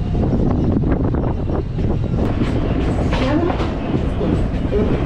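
MMTS electric local train running on the rails, heard from inside the coach: a steady low rumble with the wheels clicking over rail joints.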